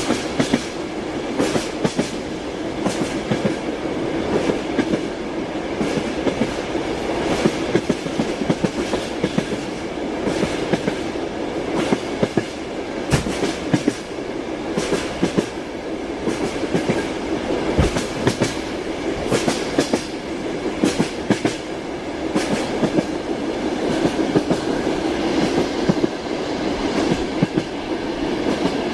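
Train wheels clattering over rail joints: a steady rolling rumble broken by regular, repeated clicks of the wheels.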